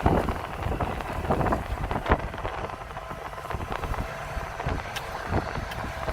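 John Deere combines running with a steady low rumble and a faint whine, while wind buffets the microphone in gusts, hardest right at the start and about two seconds in.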